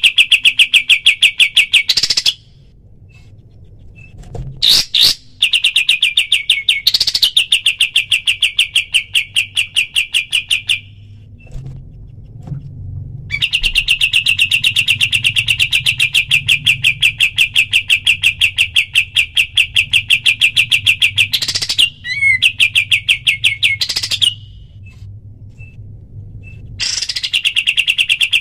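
Kapas tembak songbird singing its rapid-fire 'tembak' song: long trills of sharp, evenly repeated notes at about ten a second, each bout lasting several seconds, with short pauses between bouts.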